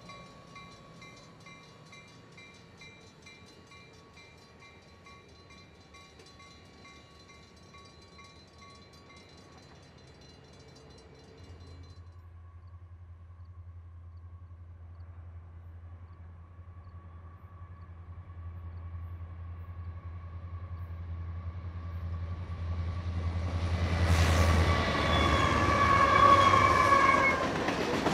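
Diesel switcher locomotives moving slowly with a bell ringing in an even, repeating pattern. Then a freight train's diesel engines approach as a low drone that grows louder, and about 24 s in a loud horn blast of several notes sounds together as the train draws close.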